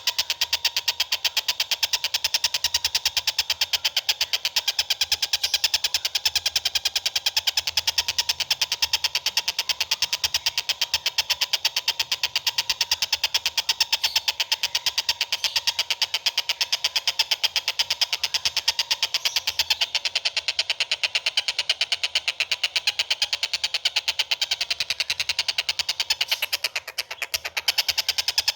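Songbird call recording: a rapid, evenly repeated stream of high chattering notes, unbroken and steady, with a brief dip near the end.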